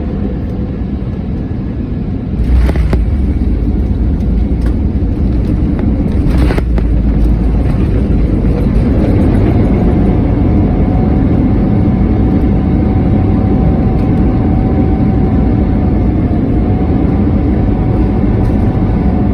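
Airbus A321neo landing, heard from the cabin: a loud jolt and a sudden rise in rumble about two and a half seconds in, as the main gear touches down, and a second knock a few seconds later. The engine whine then rises about eight seconds in and holds steady through the rollout, typical of reverse thrust.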